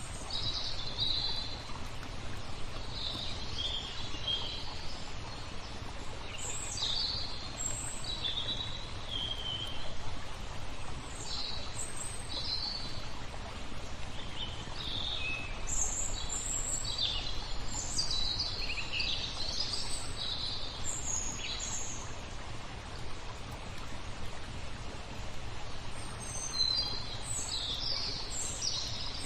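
Small songbirds chirping and twittering in short scattered phrases, busiest in the middle and near the end, over a steady wash of flowing water.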